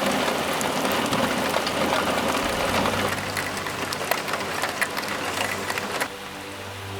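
Heavy thunderstorm rain pelting down, with many sharp drop hits over a dense hiss; it drops abruptly to a softer patter about six seconds in.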